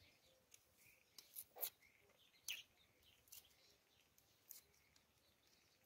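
Near silence with faint, scattered bird chirps and a few light clicks.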